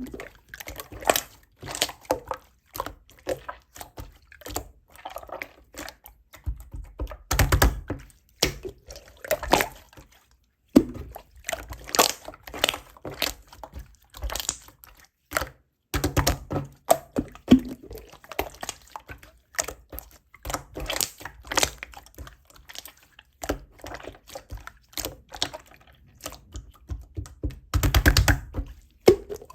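Slime being squished and pressed by hand: an irregular run of wet clicks, pops and squelches, with a couple of louder, heavier squishes.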